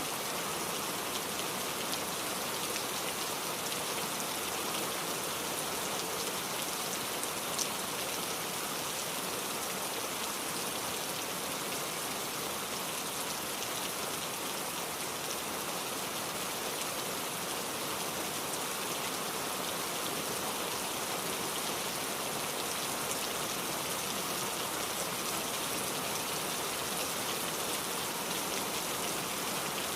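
Steady rain falling, an even patter with a few sharper drop ticks.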